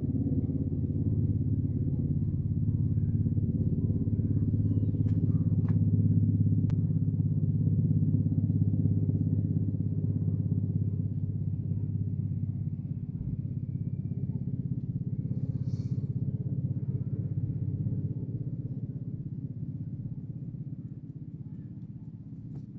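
Helicopter in flight: a steady, low rotor and engine drone that swells slightly and then fades over the last several seconds as the helicopter moves away.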